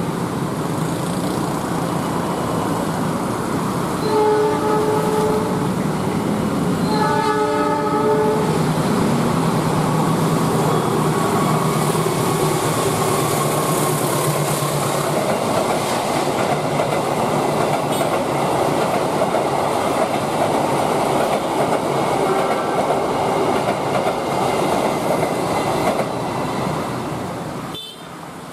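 A passenger train sounds two long horn blasts, then runs across the viaduct overhead with a steady rumble and wheel clatter. It gives a brief third horn toot about twenty-two seconds in, with road traffic passing underneath.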